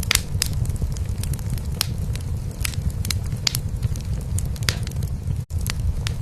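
Wood fire crackling in a fireplace, with irregular sharp pops over a steady low purr from a cat. The sound cuts out for a split second about five and a half seconds in.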